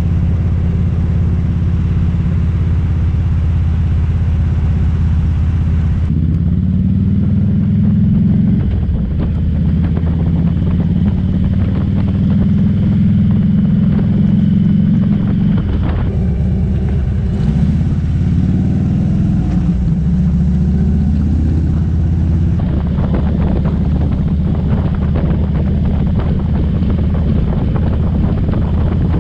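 Harley-Davidson motorcycle's V-twin engine running steadily while riding. Its note shifts several times as the throttle and gears change.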